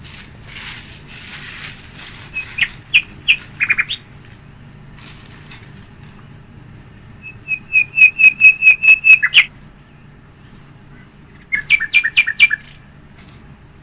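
A bird chirping in three runs of quick, sharp, repeated high notes, about six a second, the longest run lasting about two seconds. A brief, softer rustle comes at the start.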